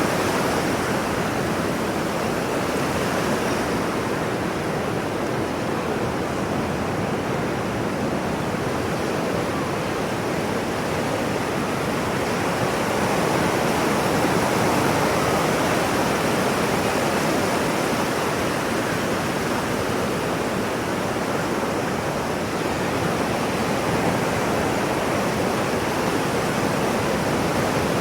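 Ocean waves: a steady rushing wash of surf with no breaks, swelling slightly about halfway through.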